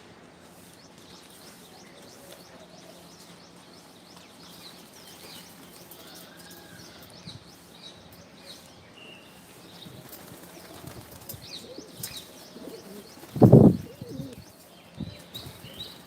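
Faint, high bird chirps scattered throughout, then a short, loud flurry of bird wings flapping about three-quarters of the way in, followed by a few softer flaps.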